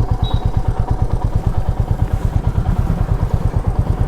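Royal Enfield Meteor 350's single-cylinder engine running at low speed, with a steady, even beat of exhaust pulses.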